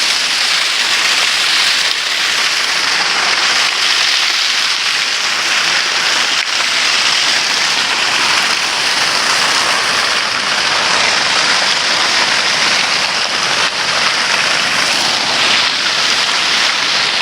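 Steady, loud rushing water.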